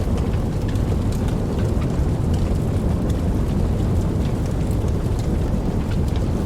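Steady rain, a deep even rush with scattered sharp ticks of single drops.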